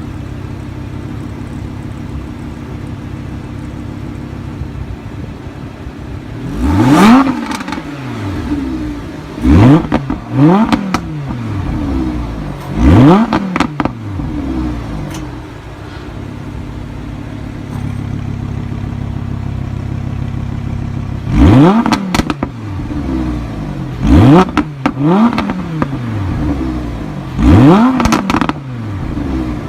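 2017 Audi R8 V10 Plus's 5.2-litre naturally aspirated V10 engine idling, then revved with sharp throttle blips while the car stands still. There are about four quick blips, each a steep rise and fall in pitch, then it settles back to idle, then another four or five blips near the end.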